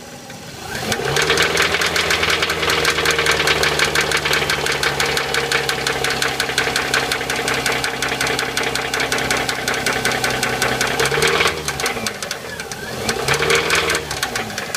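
Subaru engine revved up and held at raised revs for about ten seconds with a rapid, loud knocking clatter, then dropped back and blipped once more near the end. The noise sounds terrible and grows worse as the engine warms, but the owner can find nothing pointing to a rod bearing.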